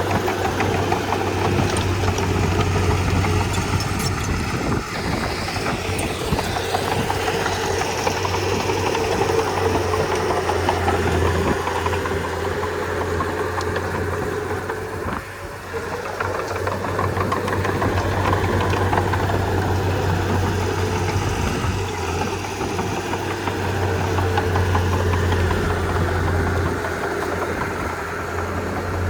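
Komatsu D31P bulldozer's diesel engine running steadily while working, with its level dropping briefly about halfway through.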